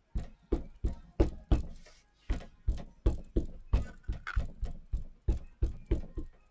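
A stamp being tapped again and again onto a Memento Black ink pad to ink it: a steady run of light knocks, about three a second.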